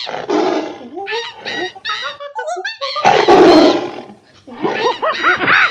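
A tiger's roar, loud and rough, about three seconds in, set among high, squeaky, fast-bending cartoon-style vocal chirps before and after it.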